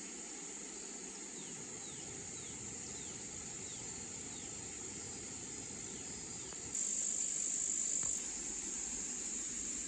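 Insects shrilling in a steady high drone, which swells louder for about a second and a half starting about seven seconds in, over a low wash of running stream water. A few short falling chirps sound in the first few seconds.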